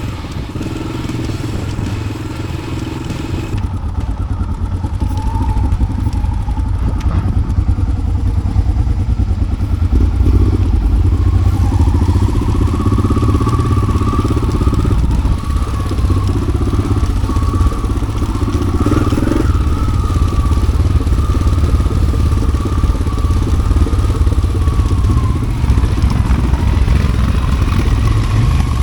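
Yamaha XT600's single-cylinder four-stroke engine running steadily with a pulsing beat through an aftermarket Arrow exhaust as the motorcycle is ridden off-road.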